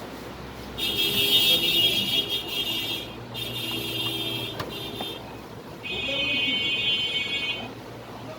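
Electronic buzzer of an IPS inverter sounding three long buzzes of about two seconds each, over a steady low hum, with a single click about halfway through.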